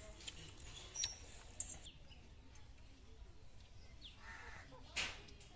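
Quiet outdoor ambience with birds chirping faintly, a couple of small sharp clicks about a second in, and a louder short sharp sound near the end.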